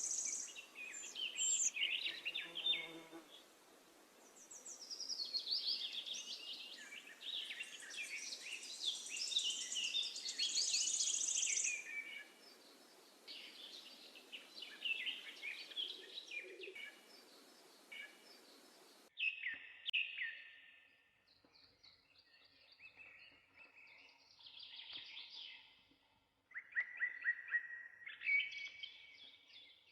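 Songbirds singing and chirping, several overlapping songs of quick trills and notes. A steady hiss under them cuts off abruptly about two-thirds of the way through, and the birdsong carries on over a quieter background.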